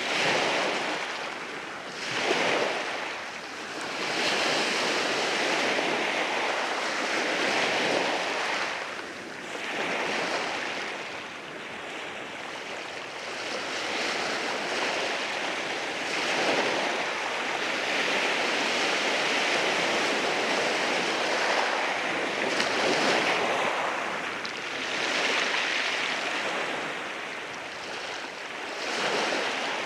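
Sea waves rolling in and washing over rocks, a continuous surf that swells and eases every few seconds.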